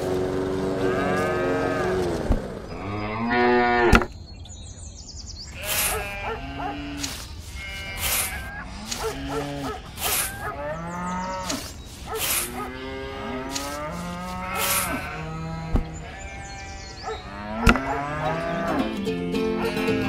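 A small motor runs steadily for the first couple of seconds, then stops. Cattle moo over and over for the rest of the time, many separate calls, with a few sharp clicks in between.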